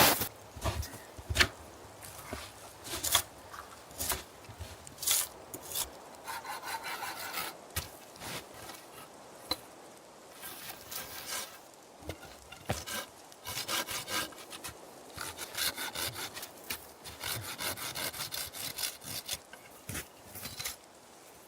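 Hand saw cutting wood in repeated rasping strokes, spaced about a second apart at first, then coming quicker and steadier.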